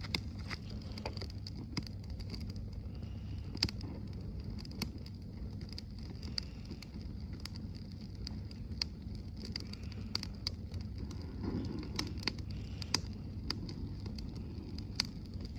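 Campfire crackling, with irregular sharp pops every second or so over a steady low rumble.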